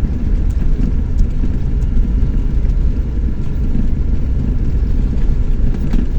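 Chevrolet S10 Tornado pickup driving along, a steady low rumble of engine and road noise.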